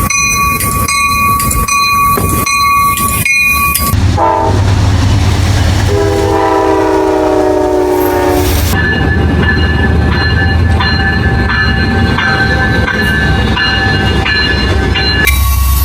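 Trains passing in several short clips. First a ringing about twice a second, then a locomotive horn: one short note, then a chord held about three seconds and falling slightly in pitch. Under and after the horn the train runs past with a steady low rumble and thin high squealing tones.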